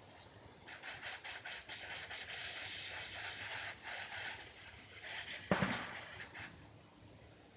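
Garden hose spraying water onto a dirt bike: a hissing, spattering spray that starts about a second in and stops shortly before the end, with a single knock about five and a half seconds in.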